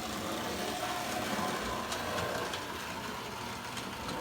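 Marx 666 toy electric train running on its O scale track: a steady motor hum and wheel rumble with a few light clicks from the rails.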